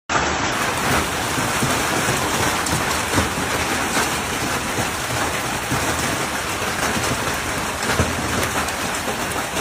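Heavy storm downpour pelting surfaces in a steady dense hiss, dotted with sharper knocks of impacts, the strongest about three seconds in and again near eight seconds.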